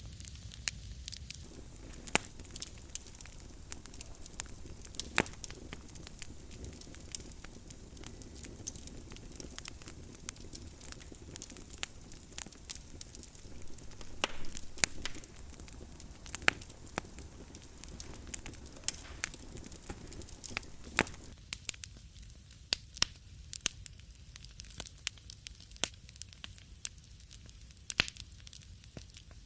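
Wood fire burning in a fireplace, crackling with irregular sharp pops over a low rumble of flame. The soft hiss under the pops thins out about two-thirds of the way through.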